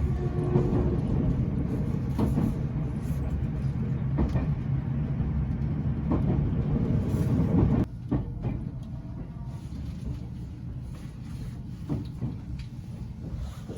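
Limited Express Fujikawa train running, heard from inside the carriage: a steady low rumble with scattered faint clicks. The noise drops suddenly about eight seconds in and stays quieter.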